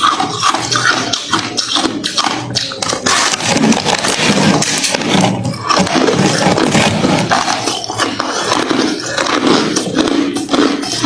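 Hard, refrozen crushed ice being chewed, with continuous crunching and many quick, sharp cracks.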